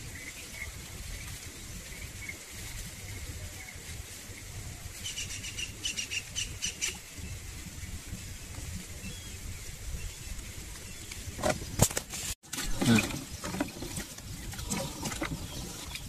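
Outdoor ambience of birds chirping over a steady low rumble, with a quick run of high chirps about five seconds in. Toward the end come a few sharp knocks and rustling from handling.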